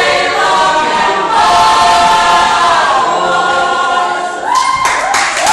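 A group of voices singing together, holding long notes that slide between pitches.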